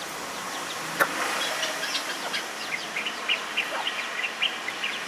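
Outdoor ambience: a steady background hiss with small birds chirping over and over, and a sharp click about a second in.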